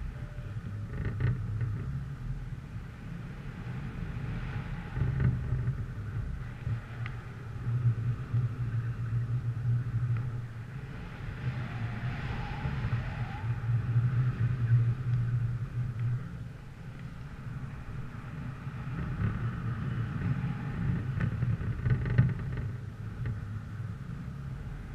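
A vehicle engine running, its low rumble swelling and easing, with wind noise on the microphone.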